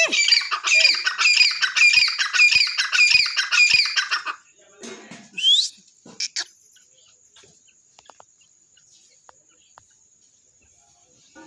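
Grey francolin (titar) calling: a loud, harsh call repeated about twice a second for four seconds. It is followed by a single rising note and two short notes, then the bird falls quiet.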